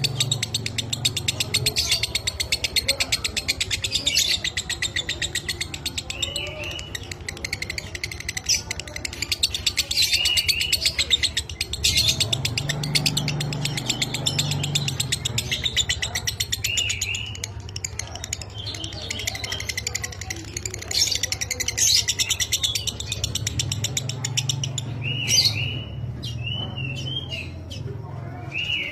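Lovebird singing a long, very fast chattering trill (the 'ngekek' song), broken by short curved chirps, several of them near the end.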